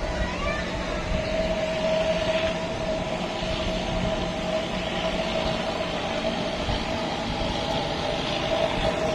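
Heavy vehicle traffic on a steep mountain road: a truck's engine running steadily over a low rumble, with a constant high whine.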